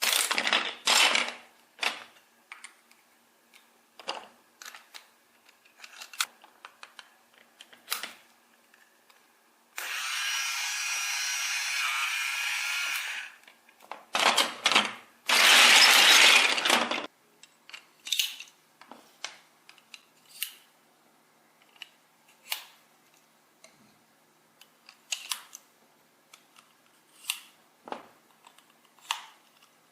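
Clicks and taps of small parts being handled, with a small tool running steadily for about three seconds near the middle, followed by two louder noisy bursts.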